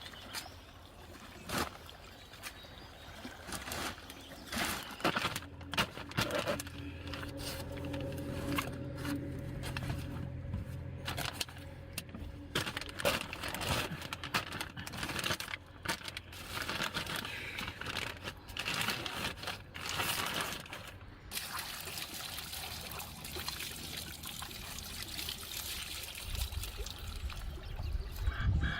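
Water pouring and splashing, with a steady run of water broken by many irregular splashes.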